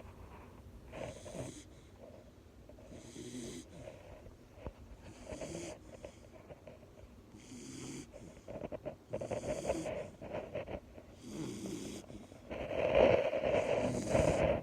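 Bull terrier snoring in its sleep, a wheezy snore with each breath about every two seconds, the loudest one near the end.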